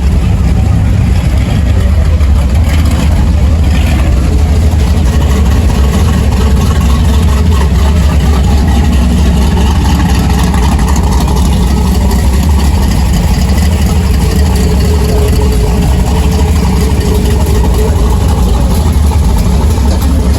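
Steady low rumble of car engines running at idle.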